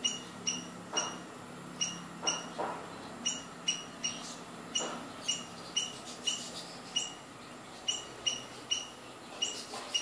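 A small bird giving a steady series of short, high, sharp chirps, about two a second.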